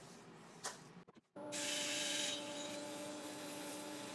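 Sandpaper rubbing against a laburnum bowl spinning on a wood lathe, with the lathe's steady motor hum underneath; it starts suddenly about a second in and the rubbing hiss is loudest for the first second or so.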